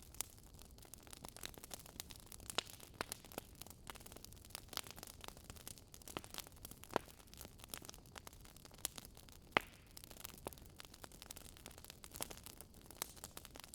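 Campfire crackling: irregular, sharp pops and snaps of burning wood over a low steady hiss.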